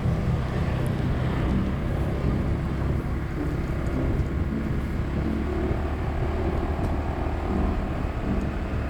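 Motorbike engine running steadily while riding, a continuous low rumble.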